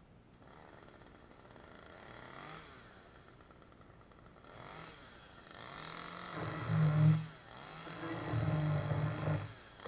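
Stihl MS 193 T top-handle chainsaw revving in three short bursts of about a second each, after a few seconds of faint low running.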